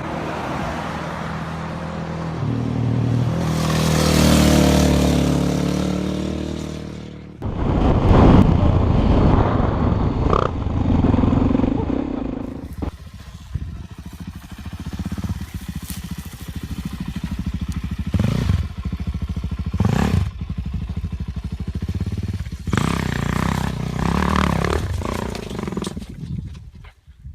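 A Suzuki DR-Z400's single-cylinder four-stroke engine being ridden, its pitch stepping up through the revs with wind rushing past for the first seven seconds. Then the sound changes suddenly to rougher running with clatter and a few sharp knocks.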